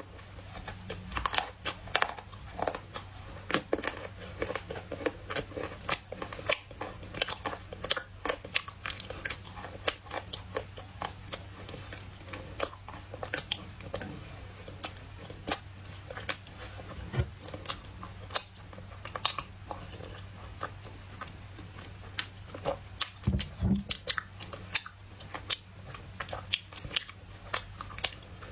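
Close-up biting and chewing of dry loess clay: a steady stream of sharp, irregular crunches and crackles from the mouth.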